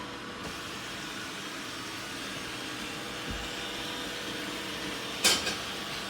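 Roomba 890 robot vacuum running its spot clean: a steady whirring hum of its motor and brushes, with a brief louder noise about five seconds in.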